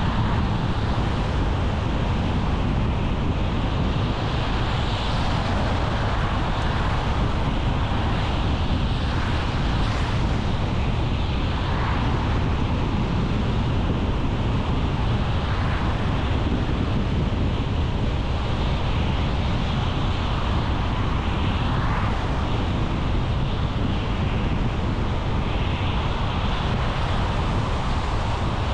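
Steady road and tyre noise of a car driving along a main road, with a few brief swells that fit other traffic going by.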